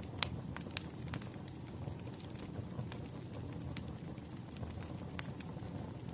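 Firewood burning: a low steady rumble of flames under sharp crackles and pops, several close together in the first second and a half, then a few scattered ones.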